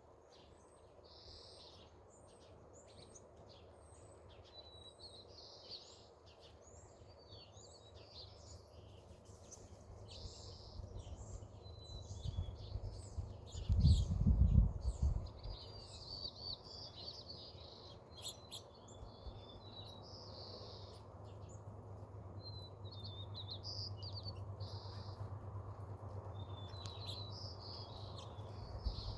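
Several small songbirds chirping and calling over and over, high and thin. A low rumble underneath grows steadily louder, with a louder low burst about halfway through.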